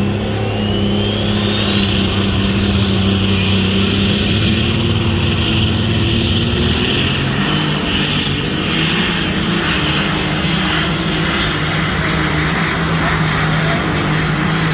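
Competition pulling vehicle making a pull at full power: a loud, steady engine drone with a high whine that climbs in pitch over the first eight seconds or so, then holds high.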